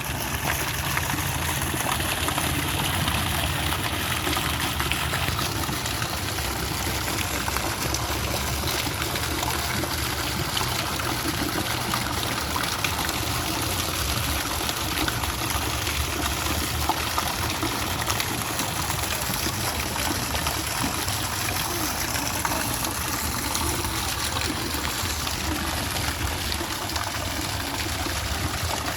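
Water fountain with three spouts splashing steadily into its basin.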